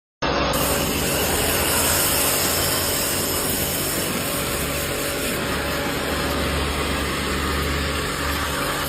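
Machinery running steadily: a dense, even noise over a low hum that does not change much.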